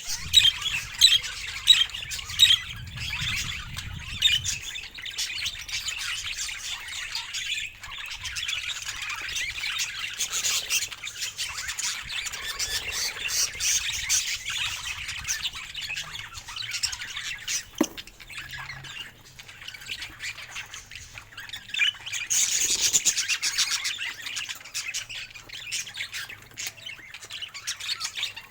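Budgerigars chirping and chattering, a continuous stream of quick warbling calls with louder squawks now and then.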